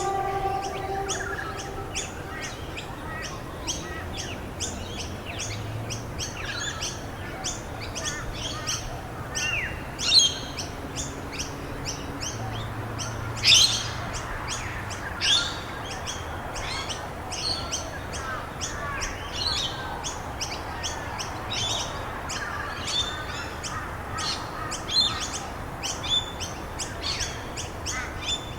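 Many small birds chirping and twittering at once in a dense, continuous chorus, with a few louder sharp chirps about ten, thirteen and fifteen seconds in, over a steady soft background hiss.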